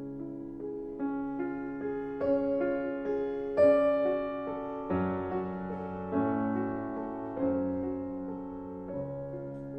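Slow, gentle piano music: soft chords and single notes struck about once a second and left to ring out.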